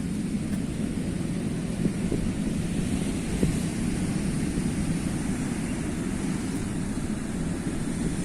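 Sea waves surging on a shore: a steady, deep rumble of surf with no single wave standing out.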